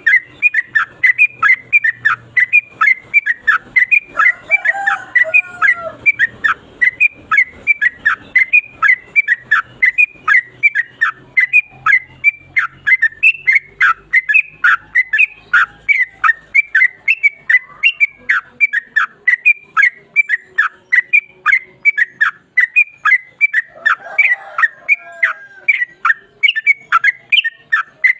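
Yellow-vented bulbul (trucukan) singing a long, unbroken 'ropel' run: short whistled notes, each falling sharply in pitch, repeated about three times a second.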